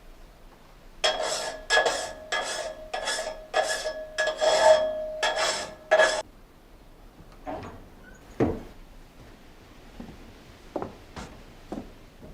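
A hand file rasping in strokes of about two a second, with a ringing metallic tone through them: a saw blade being sharpened. After about six seconds the filing stops, and a few scattered knocks and taps follow.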